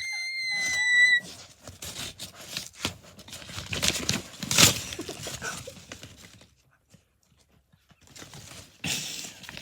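Deliberately gross noises made by a person: a high, steady whistle for about a second, then a run of crackly, scratchy sounds with one sharp loud burst near the middle, a short pause, and another scratchy burst near the end.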